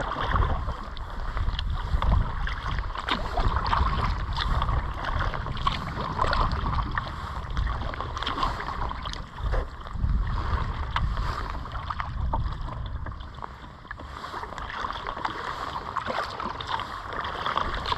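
Kayak paddle strokes in the water, splashing and dripping in a steady rhythm of swells every couple of seconds, with wind rumbling on the microphone.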